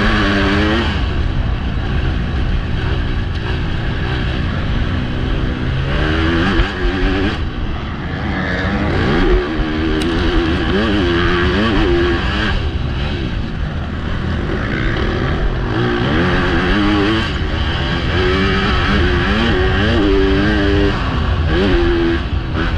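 Motocross bike engine heard close up from a helmet-mounted camera, revving up and down over and over as the rider accelerates, shifts and backs off around the track, under a constant rush of wind and track noise.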